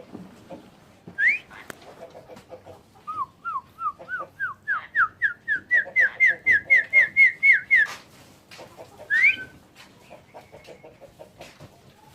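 Pied starling (jalak suren) whistling: a short upward whistle, then a quick run of short repeated whistled notes, about four a second, that climb in pitch and grow louder before stopping suddenly, and one more whistle after.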